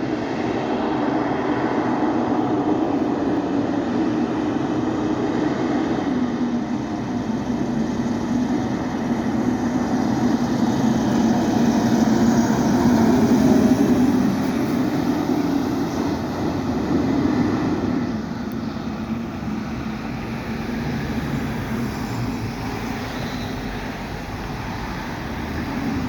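2008 HME fire engine (pumper) on the road: a steady diesel engine and road rumble, swelling to its loudest about 13 seconds in, then easing off.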